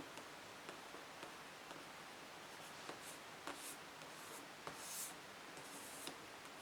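Faint fingernail scratching on a book, a few short scraping strokes in the second half, with light scattered taps and clicks throughout.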